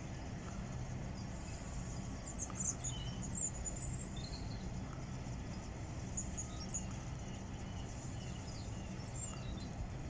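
Small birds chirping in short bursts over a steady low hum.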